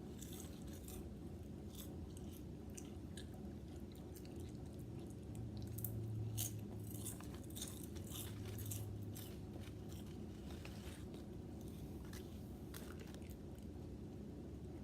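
Potato chips being bitten and chewed close to the microphone: irregular crisp crunches. Under them runs a low steady hum that grows louder about five seconds in and fades back about nine seconds in.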